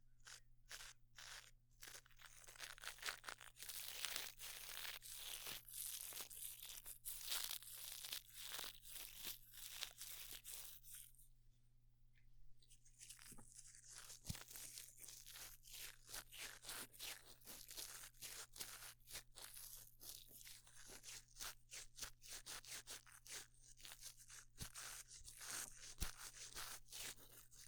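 Close-miked scratching and crackling scrapes, an ASMR sound standing in for a dental scaler picking plaque off teeth, in quick uneven strokes with a short pause about eleven seconds in.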